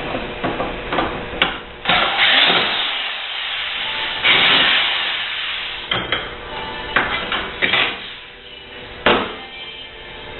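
Knocking, clattering and short rasping bursts of tools working on dishwasher parts, several sharp knocks and a few noisy scrapes a second or so long.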